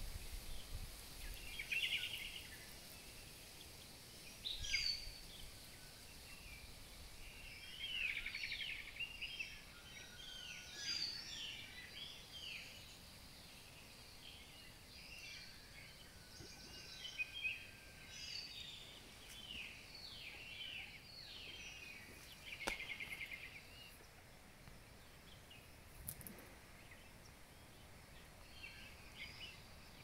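Several wild birds singing and calling, with many short chirps and trills overlapping, busiest in the middle. A single sharp click about three quarters through.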